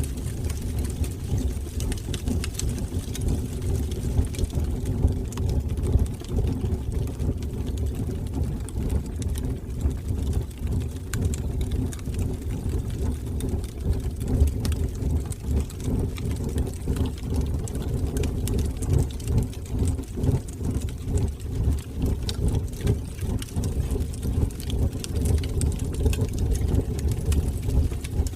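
Wood fire burning in a fireplace: a steady, fluttering low rumble of flames with scattered small crackles and pops throughout.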